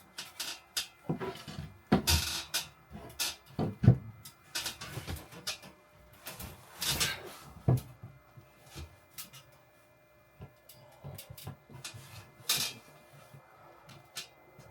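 Wooden ceiling panels being handled and fitted: irregular knocks and taps of wood on wood, with short scraping and rustling strokes in between and a quieter pause about two-thirds of the way through.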